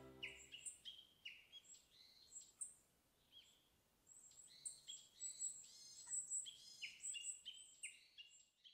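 Faint songbirds chirping and twittering, many short high calls in quick succession, with a lull about three seconds in and busier chirping after it.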